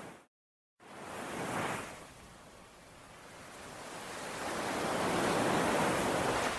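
Sea waves washing onto a shore: one wave surges in about a second and a half in, then a larger swell builds steadily to its peak near the end. Half a second in, the sound cuts out to dead silence for about half a second.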